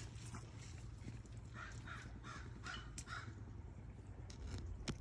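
A crow cawing: a quick run of about five caws, starting a little over a second in.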